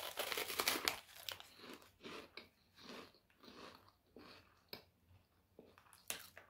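A person biting into and chewing a crunchy, crumbly puffed snack stick: dense crunching for the first second or so, then steady chewing strokes about twice a second.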